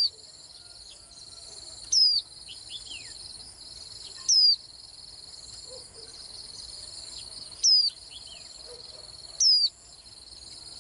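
White-eye giving short, high, downward-slurred calls, five in all, about every two seconds, with a few fainter falling chirps between them. A steady high trill of crickets runs underneath.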